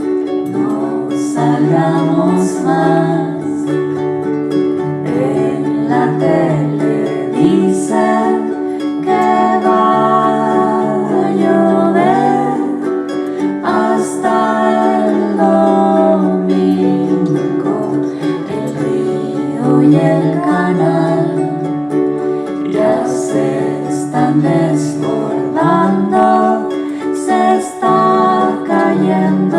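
An acoustic song played live: a plucked string instrument is strummed under a singing voice that carries a wordless melody.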